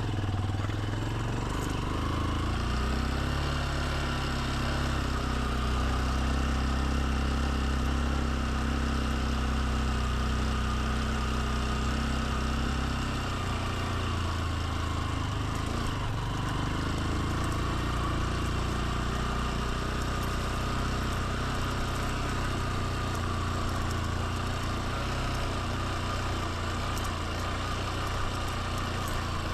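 Motorbike engine running on the move, with wind and road noise over it. The engine note shifts about halfway through.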